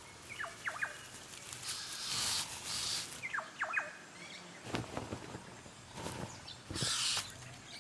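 Bird calls: two quick sets of three sharply falling whistles, one near the start and one about three and a half seconds in, with short bursts of rustling in between.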